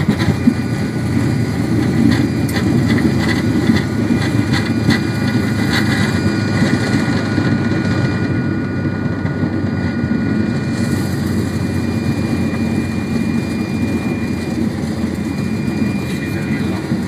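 Fokker 100 cockpit noise during the landing rollout: a loud, steady rumble of the jet engines and the airframe rolling on the runway, with a thin high whine over it. Rattles and knocks come through in the first few seconds, and the highest hiss dies away for a few seconds in the middle.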